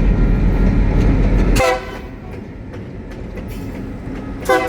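Train passing: a loud low rumble that drops away sharply about one and a half seconds in, with a short blast of the train horn at that moment and another starting near the end.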